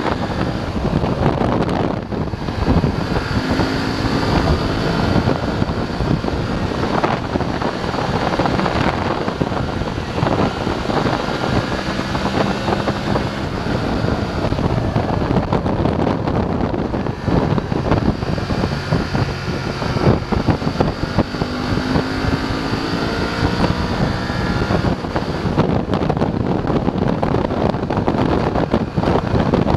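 BMW F 850 GS parallel-twin engine running under way, its pitch rising several times as it accelerates through the gears, with wind rushing over the microphone.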